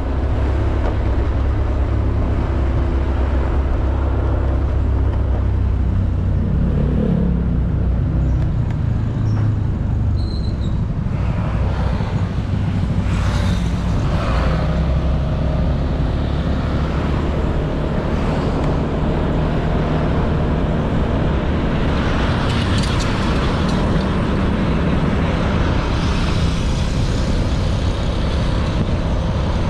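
Honda Beat 110cc scooter's single-cylinder engine running steadily under way, with road noise. The engine note shifts up and down about a third of the way in.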